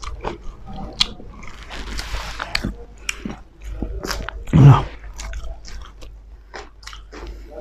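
Close-miked eating sounds of pork and rice eaten by hand: chewing, biting and lip smacks as a string of short wet clicks. About four and a half seconds in comes the loudest sound, a short low hum from one of the eaters.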